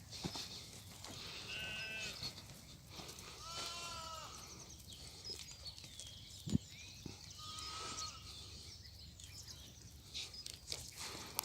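Xalda sheep bleating three times, the middle call the longest, among scattered rustling and clicking as the flock feeds on olive prunings. A single sharp knock comes about halfway through.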